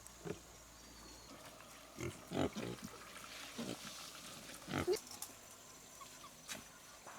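Domestic pigs grunting: a handful of short grunts, in a cluster about two seconds in and again near five seconds in.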